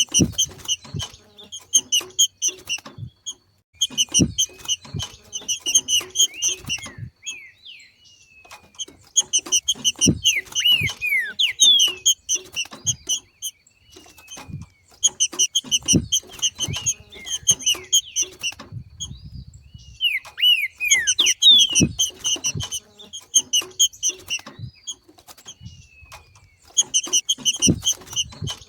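Trinca-ferro (green-winged saltator) giving its rapid chattering 'macheado' call, in repeated bouts of a few seconds with short pauses between them. Each bout mixes fast repeated notes with a few falling whistled slurs.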